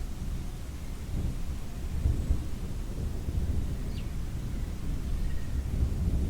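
Thunder rumbling low and continuously, swelling about two seconds in and again near the end, over a faint steady hiss of rain.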